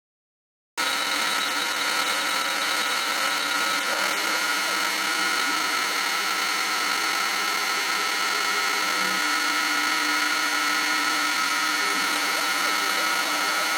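An electric power tool's motor starting abruptly about a second in and running steadily at constant speed, a high whine over a noisy hum.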